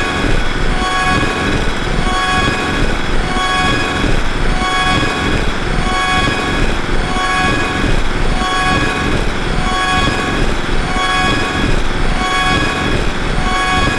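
Electronic noise-drone music: a dense, loud wash of distorted noise with a cluster of steady high tones pulsing on and off in an even, looped rhythm.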